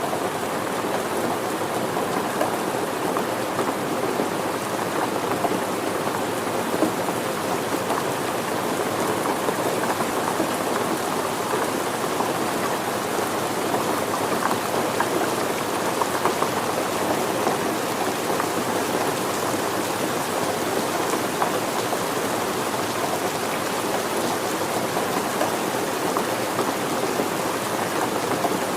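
Steady rain falling: an even, dense patter of drops that holds the same level throughout.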